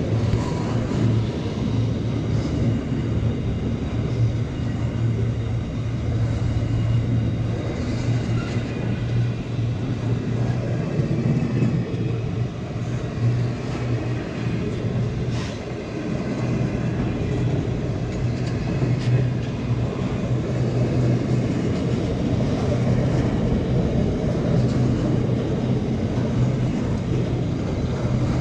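Container wagons of a long freight train rolling slowly past: a steady rumble of steel wheels on the rails, with a few scattered sharp clicks.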